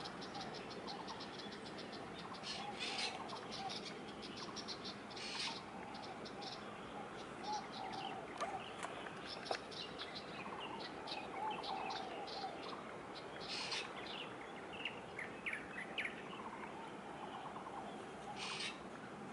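Small birds chirping, with rapid runs of short high notes and a louder call every few seconds, over a steady background hum.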